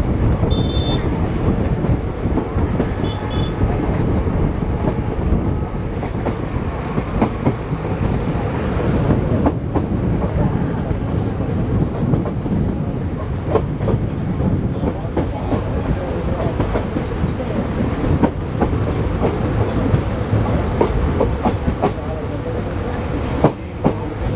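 Train running on the track, wheels rumbling and clicking over the rails, with a high-pitched wheel squeal coming and going in broken stretches through the middle.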